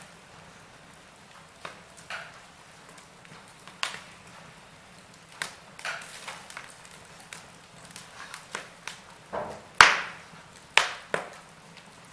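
Wood fire burning, with irregular sharp crackles and pops over a low hiss; the loudest pops come in a cluster near the end.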